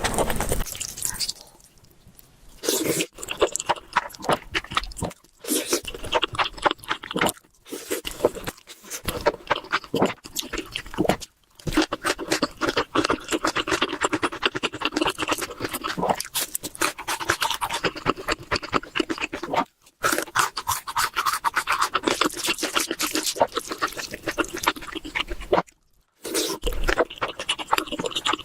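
Close-miked eating sounds from people eating spicy noodles: wet chewing and crunching in dense, irregular clicks. The sound breaks off abruptly several times as one eating clip cuts to the next.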